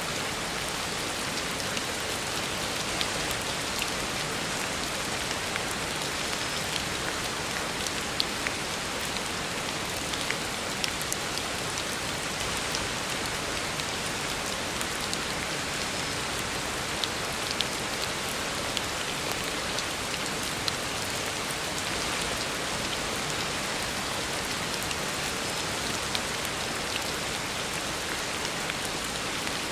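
Heavy rain falling steadily on a road, an even hiss with many small scattered drop ticks.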